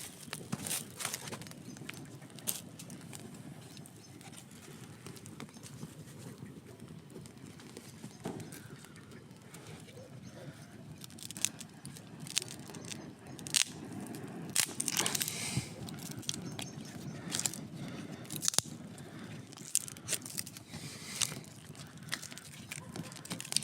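Campfire burning, with irregular crackles and sharp pops from the burning wood over a steady low rumble.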